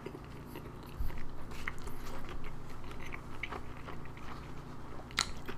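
A person chewing a mouthful of Korean-style grilled toast sandwich with ham, egg and cheese: scattered small wet mouth clicks and light crunches of the toasted bread, starting about a second in.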